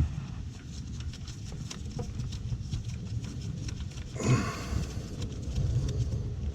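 Scattered light clicks and knocks from hands handling parts and wiring, over a low rumble of wind on the microphone, with a louder clatter about four seconds in.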